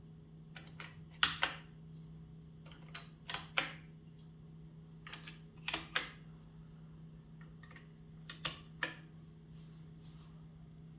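IBM Model M buckling-spring keys being pressed, giving sharp clicks in four short, irregular groups of two to four, over a steady low hum.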